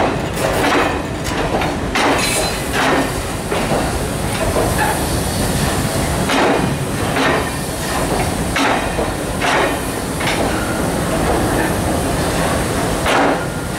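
Indian Railways passenger coaches rolling slowly past: a steady rumble with the wheels clanking over rail joints, roughly once a second at uneven spacing.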